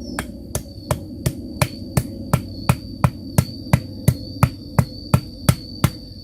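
Evenly spaced knocking, about three knocks a second, over a steady hum and a thin high whine.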